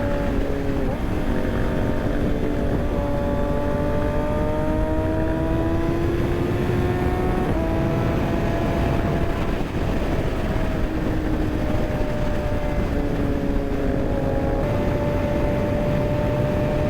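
Kawasaki ZX6R inline-four sport-bike engine running under way, its note climbing slowly and stepping up or down several times as the rider changes speed through corners, over a steady low rush.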